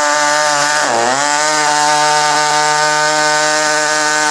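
Electric power tool cutting a hole in a motorcycle saddlebag, its motor running at a steady high speed and dipping in pitch under load about a second in before recovering; it stops abruptly at the end.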